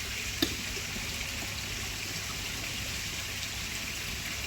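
Steady rushing water noise with a low hum underneath, and a single sharp click about half a second in.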